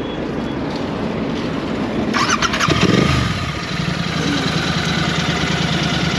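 Motorcycle engine starting about halfway in, with a brief rise and fall in revs as it catches, then idling steadily.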